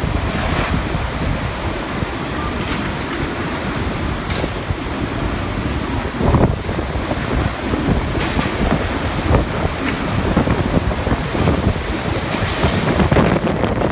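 Typhoon wind gusting hard and buffeting the microphone, a steady loud rush with stronger gusts about six and a half seconds in and again near the end.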